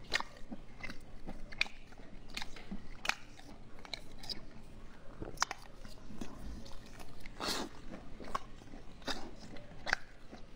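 Close-miked chewing and biting of sticky, sauce-glazed braised strips: wet mouth clicks and snaps at irregular intervals.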